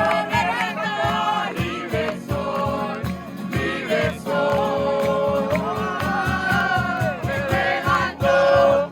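A group of young people singing a worship song together, with a steady beat underneath.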